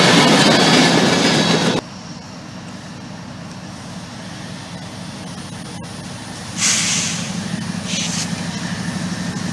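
Loud rolling noise of a freight train's cars on the rails, cut off abruptly just under two seconds in; then the steady low rumble of distant approaching diesel freight locomotives, with two short bursts of hiss a little over a second apart near the end.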